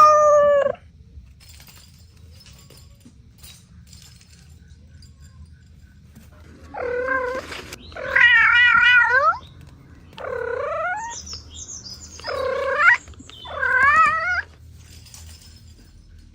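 A cat meowing: one call right at the start, then after a pause of about six seconds five drawn-out meows in quick succession. Some of these waver in pitch and most slide down at the end.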